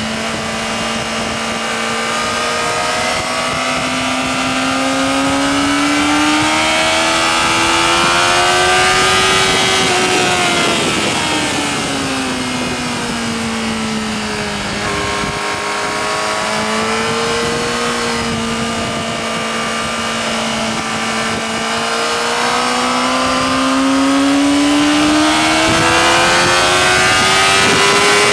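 Yamaha R6's inline-four engine at high revs, heard onboard with wind rushing over the microphone. The engine note climbs slowly, falls away around the middle, then climbs again near the end.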